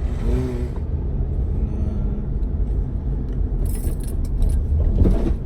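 Steady low road and engine rumble heard from inside a moving car's cabin, with a short cluster of light jingling clicks about four seconds in.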